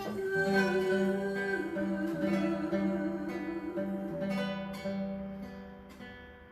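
Acoustic guitar playing, with a sung note held with vibrato over it; the music grows quieter toward the end.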